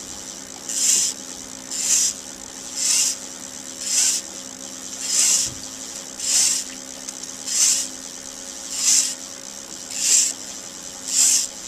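Fishing line being pulled off an open-bail spinning reel by hand in even strokes. Each pull gives a short zipping hiss, about once a second, over a steady low hum.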